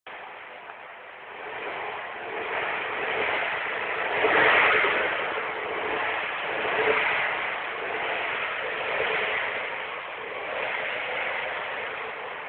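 Subaru Impreza Prodrive's flat-four engine and exhaust running, heard through a phone's microphone, the sound swelling and easing several times and loudest about four and a half seconds in.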